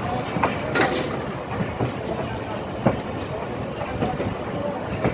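Passenger train pulling out of the station: its coach wheels click and clank unevenly over rail joints and pointwork, about once a second, over a steady running rumble.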